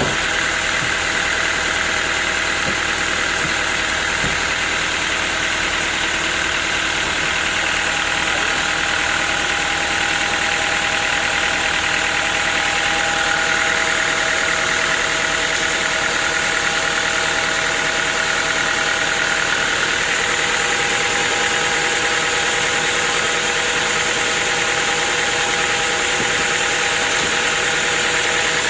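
Sawmill machinery running steadily, a constant mechanical whine with a few steady tones over an engine-like drone.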